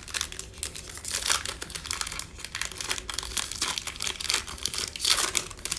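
Plastic trading-card pack wrapper being torn open and crinkled: a dense run of sharp crackles, louder around a second in and again near the end.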